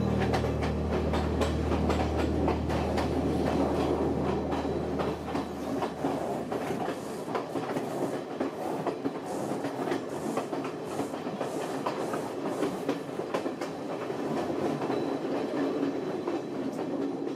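Passenger train running on the rails, with a fast, dense clickety-clack and rattle of wheels and carriages over a steady rumble.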